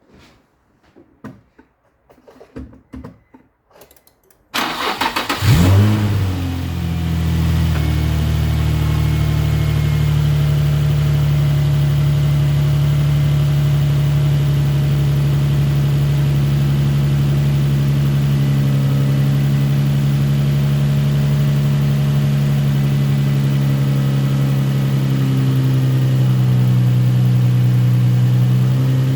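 Nissan 350Z's 3.5-litre V6 cranked over and catching about four and a half seconds in, flaring briefly, then settling into a steady idle. It is a test start after two ignition coils were swapped between cylinders to trace a misfire. A few faint knocks come before the start.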